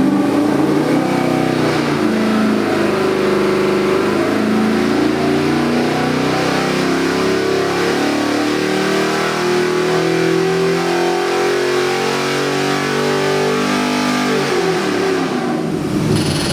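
Chevrolet LS3 376 cubic-inch V8 crate engine running hard on an engine dyno during a pull, its pitch climbing slowly as the revs rise. Near the end the revs fall away quickly as it comes off the throttle.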